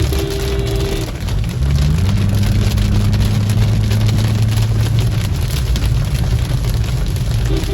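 Heavy rain falling, with a motor vehicle's engine running close by; its note steps up about two seconds in and eases back a few seconds later. A short steady tone sounds in the first second, and a few quick beeps near the end.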